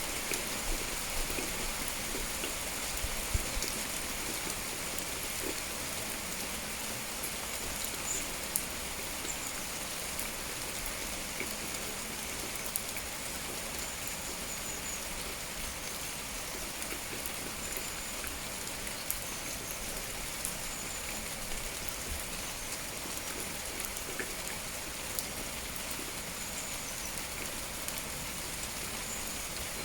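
Steady rain, an even hiss with scattered drips and a few louder drop knocks in the first few seconds. Faint short high bird chirps come now and then.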